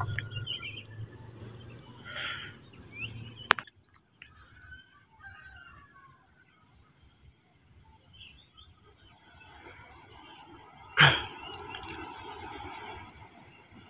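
Birds chirping in open countryside, with a quick regular series of short high chirps running through most of it. A sharp click comes a few seconds in, and a brief, louder knock or rustle comes near the end.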